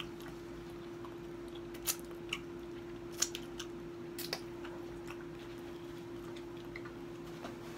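A few scattered short clicks and smacks of someone eating, over a steady hum.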